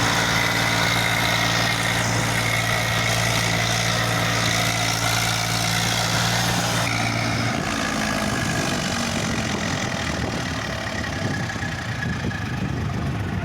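Eicher 380 tractor's diesel engine running with a steady hum. About seven seconds in the steady note breaks into a rougher, uneven rumble as the tractor works to pull a loaded soil trolley through mud and water.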